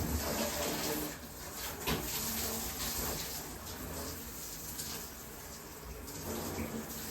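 Water running from a bathtub tap and splashing into the tub. It is a little louder for about the first second, with a brief knock near two seconds in.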